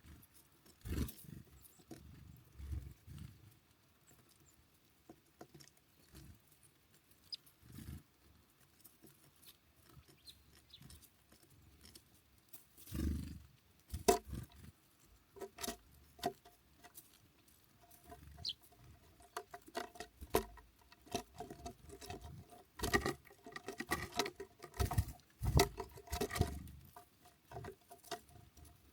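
Irregular taps, knocks and scratches of small birds pecking and hopping at a seed feeder, sparse at first and growing busier in the second half.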